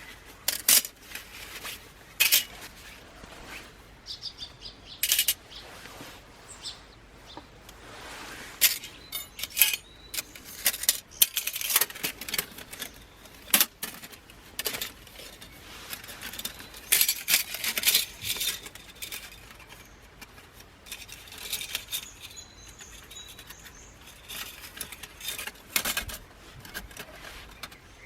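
Light metal clinks and rattles at irregular intervals, some with a brief high ring: thin aluminium stove parts and metal camp gear being handled and set down.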